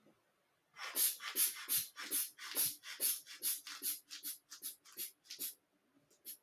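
Hand bulb of a manual blood pressure cuff squeezed in quick succession to inflate the cuff, each squeeze a short puff of air, about seventeen at three or four a second, then two more near the end.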